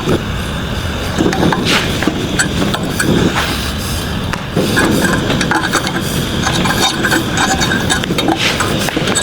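A gas torch runs with a steady hiss, broken by light metallic clinks of needle-nose pliers on thin sheet steel as the rose petals are bent and folded.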